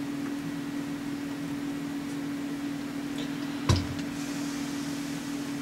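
Steady machine hum with a single sharp knock a little past halfway.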